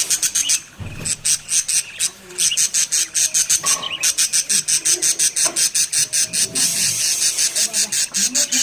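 Baby budgerigar chicks chirping in a rapid, even series of short high chirps, about six a second.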